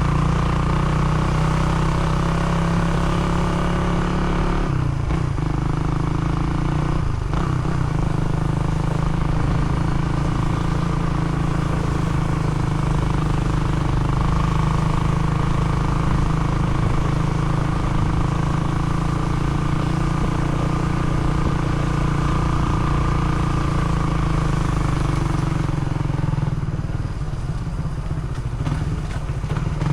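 Motorcycle engine running steadily while riding, its pitch dipping briefly about five and seven seconds in.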